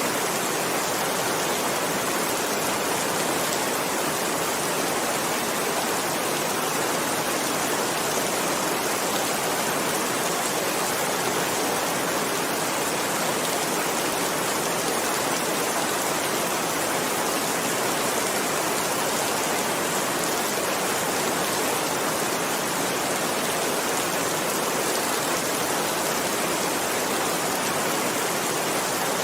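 Heavy rain falling steadily, an even, unbroken hiss with no single drops or thunder standing out.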